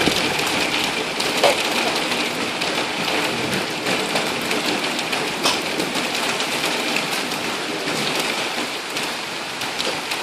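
Heavy rain pouring steadily, with a few sharp ticks of drops striking close by.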